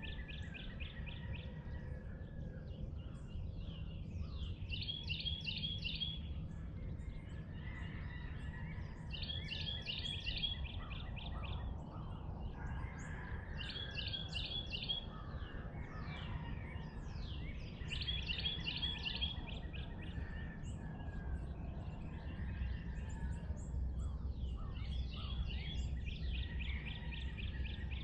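A songbird singing a short phrase of rapid repeated notes, about a second and a half long, again every four to five seconds, over a steady low rumble of background noise.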